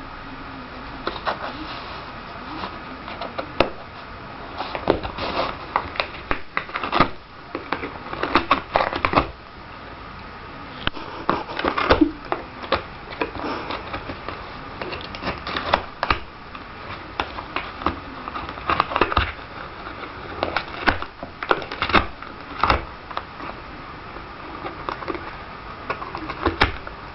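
A cat rustling and scratching at something crinkly, with irregular clusters of crackles, clicks and taps.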